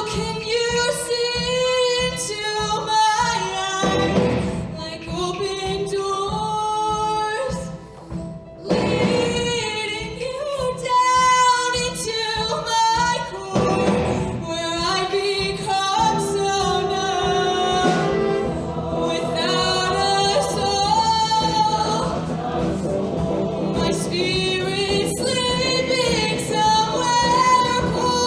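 Show choir singing with a backing band and a steady beat, voices high and bright, with a brief drop in level at about 8 seconds.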